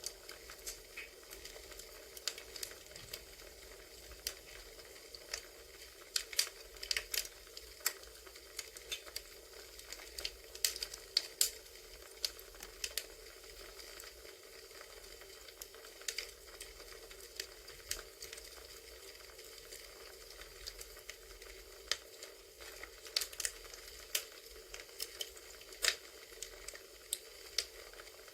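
Campfire ambience recording: burning wood crackling with irregular pops and snaps over a steady hiss.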